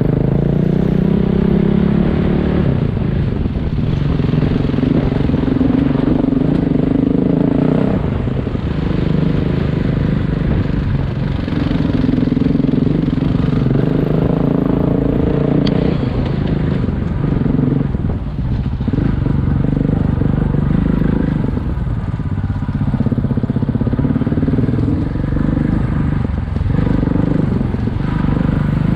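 Single-cylinder adventure motorcycle engine running under way, its pitch rising and falling repeatedly with throttle and gear changes, over a steady low rumble.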